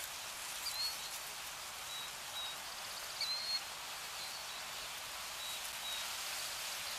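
Nature ambience: a steady hiss with short, high bird chirps every second or so, the clearest about a second in and about three seconds in.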